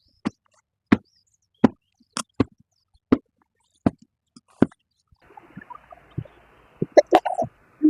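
Footsteps at a steady walking pace, one about every three-quarters of a second; from about five seconds in a soft rustling joins them, with a quick cluster of steps near the end.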